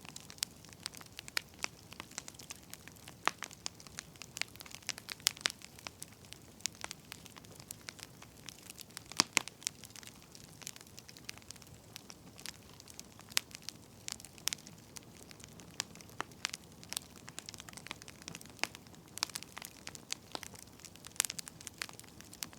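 Burning firewood crackling, with irregular sharp pops and snaps of varying loudness over a faint steady hiss.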